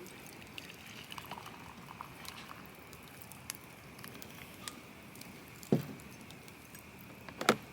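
Quiet campfire crackling: scattered small pops and ticks, with two sharper knocks, one about three-quarters of the way through and one near the end.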